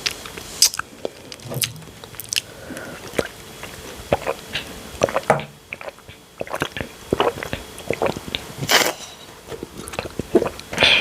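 Close-miked eating sounds: irregular bites and chewing, with wet smacks and crisp crunches.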